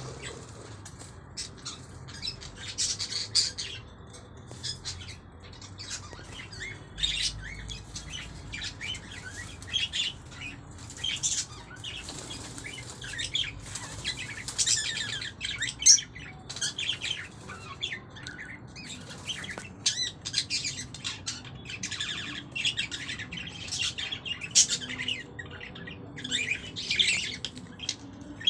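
A flock of small ornamental cage birds chirping and calling over one another in an aviary: many quick, high-pitched chirps, with no let-up.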